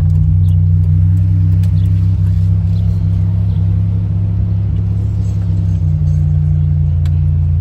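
Buick Grand National's turbocharged 3.8-litre V6 running steadily at low speed, a deep, even drone as the car rolls slowly in to park.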